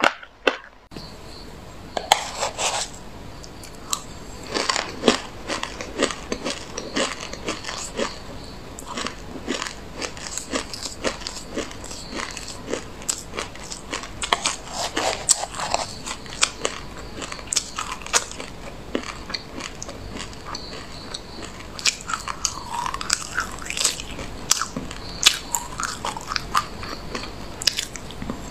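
Chewing white sesame seeds mixed with passionfruit: a dense, irregular run of crisp crunches and clicks, starting about a second in.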